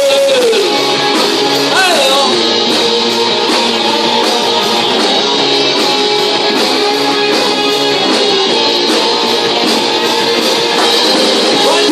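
Live rock band playing a cover song, with electric guitar and a singer heard near the start and again near the end.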